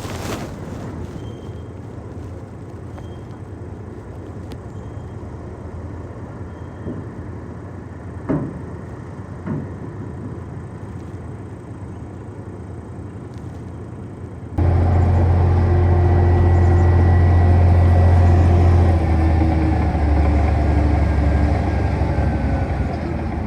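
Diesel engine of heavy earthmoving machinery running with a steady low rumble. About two-thirds of the way in, it gives way abruptly to a much louder, closer, low engine drone.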